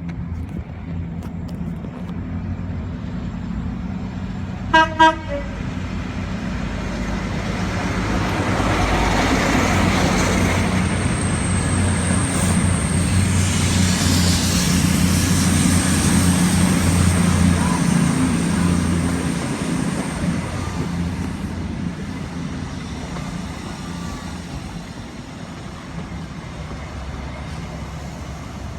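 A train passing at a station with its engine running: two short horn blasts about five seconds in, then the rumble of the train builds, holds and slowly fades.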